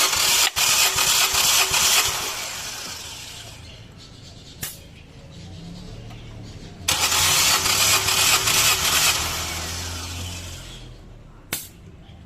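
Nissan Versa engine cranked on the starter for a compression test on cylinder 2, twice: a cranking burst of about two seconds at the start and another about seven seconds in, each dying away afterwards, with a sharp click between them and another near the end.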